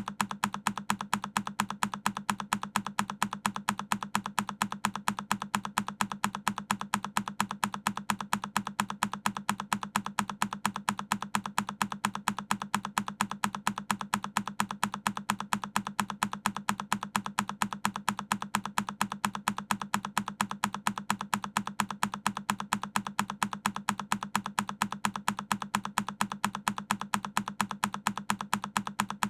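A single key on a Keychron K10 mechanical keyboard pressed over and over, a sharp click repeating evenly several times a second.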